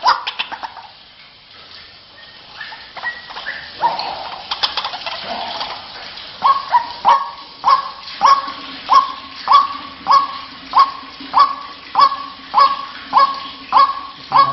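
White-breasted waterhen (ruak-ruak) calling: scattered calls at first, then from about halfway a steady run of repeated calls, each one a quick upward sweep, about one and a half a second.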